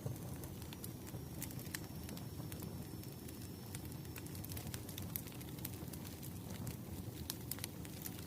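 Wood fire burning steadily: a low rumble of flames with frequent small sharp crackles and pops of the burning logs.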